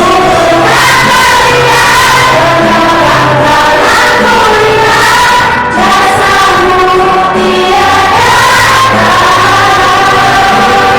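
A school choir singing together, many voices holding long notes in harmony.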